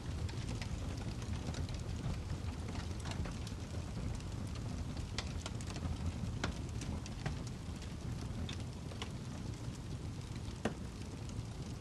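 Wood fire burning in a fireplace, the log crackling with irregular sharp pops over a steady low rumble of the flames; a couple of louder pops stand out in the second half.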